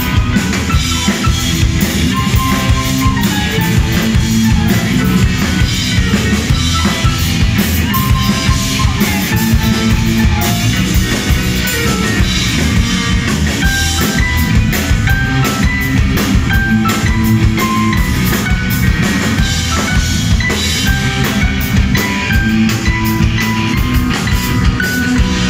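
Rock band playing live: drum kit keeping a steady beat under electric guitar and bass guitar.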